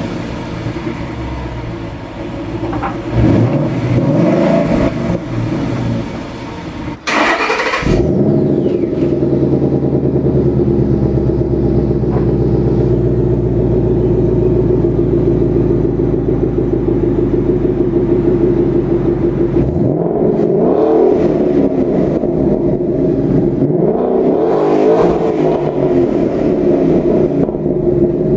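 A 2013 Ford Mustang GT's 5.0 V8 running through its exhaust. It revs several times, settles into a steady idle, then revs again in short blips near the end. A brief hiss breaks in about seven seconds in.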